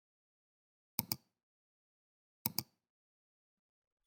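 Two sharp double clicks, each a pair of clicks about a tenth of a second apart, the pairs about a second and a half apart, over dead silence: click sound effects of the kind used in an end-screen animation.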